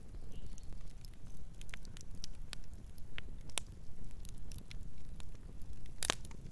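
Wood fire crackling: irregular sharp pops and snaps over a low steady hum of the burning, with one loud snap near the end.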